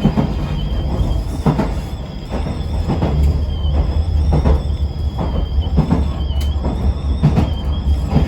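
Yoro Railway local electric train running between stations, heard from inside the car: a steady low rumble with repeated knocks of the wheels over rail joints and a faint high whine.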